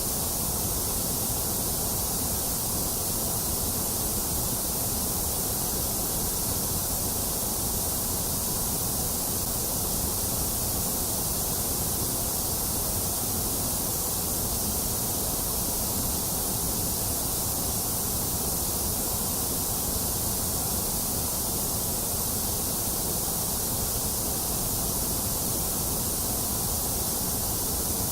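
Steady white noise: an even, unbroken hiss, brightest in the high treble, with a softer rumble underneath and no change in level.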